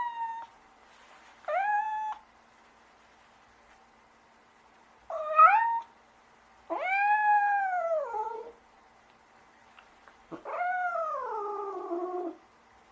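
Domestic cat meowing: four separate meows a few seconds apart, the longer ones rising and then sliding down in pitch, over a faint steady background hum.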